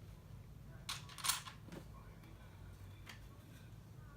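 Plastic LEGO pieces being handled, giving a few short clicks, the loudest a little after a second in, over a steady low hum.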